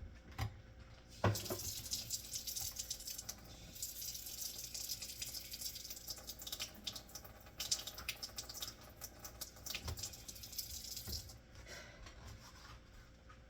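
Water from a tap running into a sink, starting with a knock about a second in and stopping near the end, with small clatters mixed in.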